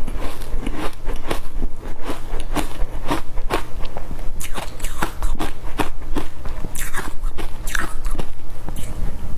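Close-miked crunching of hard ice being bitten and chewed, with sharp irregular crunches several times a second.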